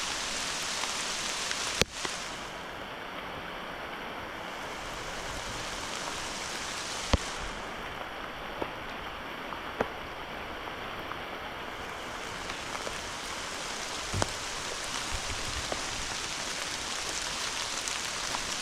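Heavy rain falling steadily, a constant hiss, with a few sharp taps of single drops landing close by, the first and loudest about two seconds in.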